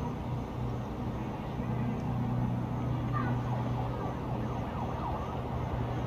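Distant town ambience at night: a steady low mechanical hum and rumble, with a few faint high sliding tones around the middle.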